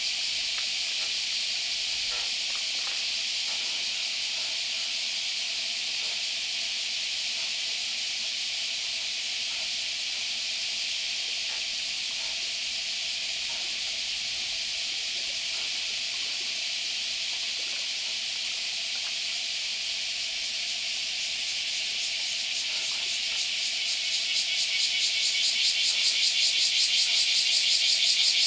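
Cicadas buzzing in a steady, dense chorus that swells louder near the end and takes on a fast pulsing rhythm.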